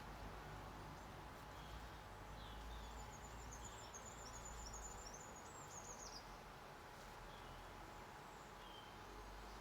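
Faint garden birdsong: a high, rapid twittering phrase of about three seconds in the middle, with a few short chirps before and after, over a steady background hiss.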